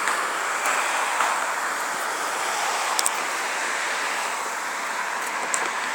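Steady, even rushing background noise outdoors, with a few faint clicks.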